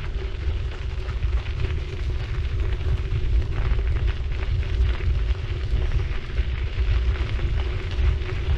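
City bike rolling along, with wind buffeting the microphone in a heavy, steady rumble and a continuous crackle of tyres on the road surface.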